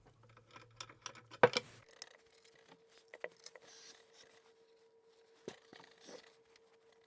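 Scattered small clicks, taps and light scrapes of teak chair parts and metal hardware being handled, with one sharper click about a second and a half in.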